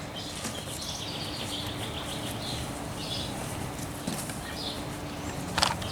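Outdoor background with faint distant birds chirping over a steady low hum, and a short click near the end.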